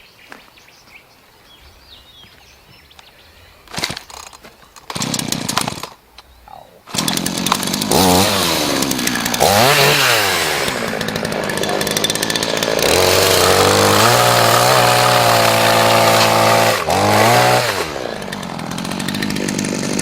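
Two-stroke chainsaw: a couple of short bursts, then it starts about seven seconds in and runs, revved up and down several times and held at high speed for a few seconds before dropping back toward idle near the end.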